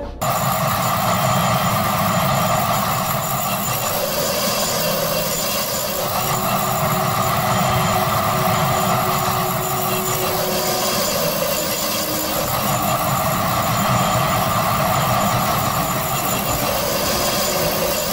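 Diesel locomotive running on the track: a steady, unbroken mechanical noise.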